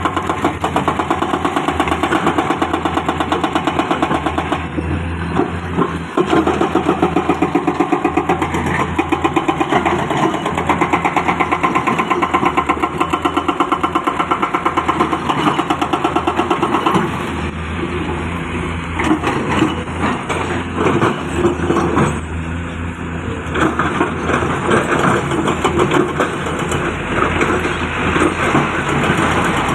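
Diesel engine of heavy earthmoving machinery running with a fast, even pulse. Its note changes partway through as the load or throttle varies.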